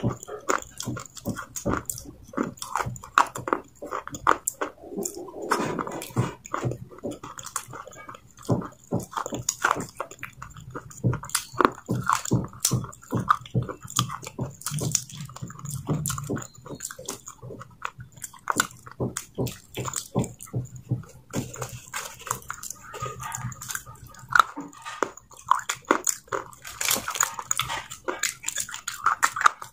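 Close-miked wet chewing and lip smacking: a person eating a soft grey paste by the fingerful, a dense run of quick wet mouth clicks.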